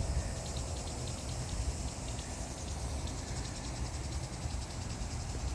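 Insects chirping in rapid, even pulses, over a steady low rumble of wind on the microphone.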